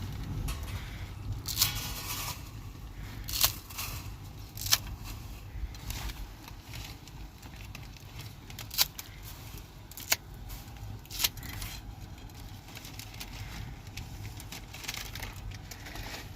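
Scattered sharp clicks and knocks, a second or more apart, over a low steady rumble.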